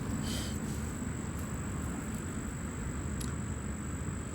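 Steady low outdoor rumble, with a thin, faint, steady high-pitched tone over it and a few faint clicks.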